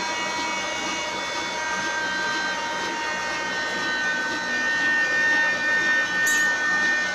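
Old black desi diesel engine running steadily, driving an aata chakki flour mill, with steady whining tones over the machinery noise.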